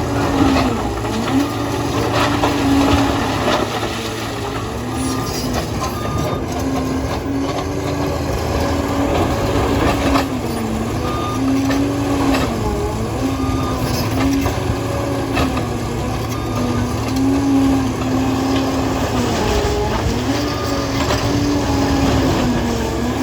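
Liebherr PR 746 crawler dozer working, its diesel engine running loud and steady, the pitch dipping briefly every two to three seconds as it takes load. Scattered knocks and rattles from the machine run through it.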